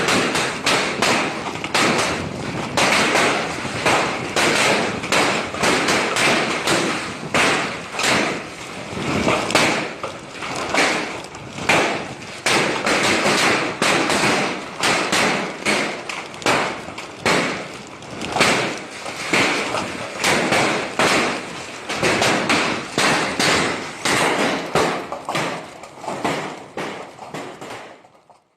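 Hailstones pelting down in a heavy shower, a dense, unbroken clatter of countless hard taps and thuds on a hard surface, easing slightly near the end.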